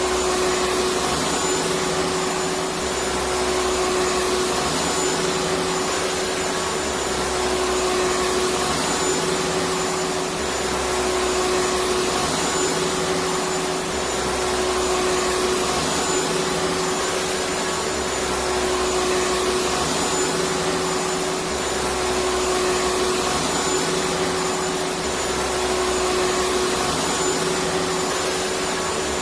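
Electric vacuum cleaner running continuously: a steady motor whoosh with a constant hum, and a low undertone that swells and fades every two to three seconds.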